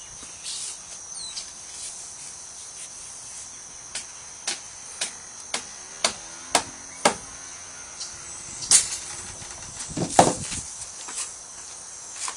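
Shims being tapped into place under a jacked-up house: a run of sharp knocks about two a second, then two louder knocks. Crickets chirr steadily behind.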